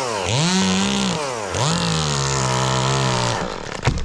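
Chainsaw running at full throttle, its engine speed dipping and recovering twice, then falling away near the end, followed by a single sharp knock.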